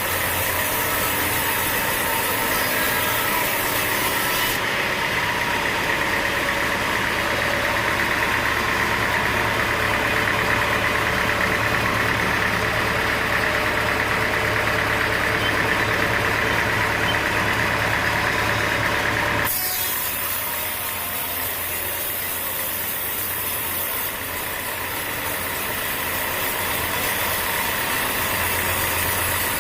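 Sawmill machinery running with a steady engine-like drone and noise, its sound changing abruptly about five seconds in and again about twenty seconds in.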